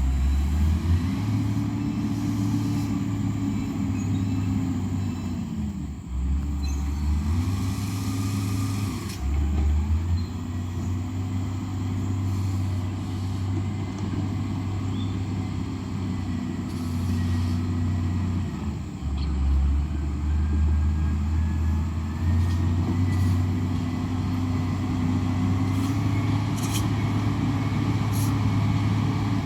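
Heavy vehicle engine revving up and easing off again and again, its pitch rising and falling every few seconds, as it works under load on a broken dirt road.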